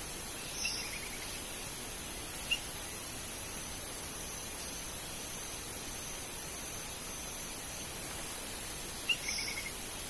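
Steady hiss with faint bird calls in it: a short note and a quick run of four or five notes about a second in, a single note a couple of seconds later, and the same note-and-run again near the end. A thin, high, steady tone runs faintly through the middle.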